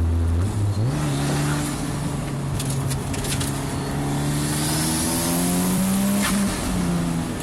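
The K20C four-cylinder engine of a swapped 1991 Honda NSX race car pulls hard under acceleration. Its revs jump about a second in, then climb steadily in pitch, and drop sharply a little after six seconds as it shifts up.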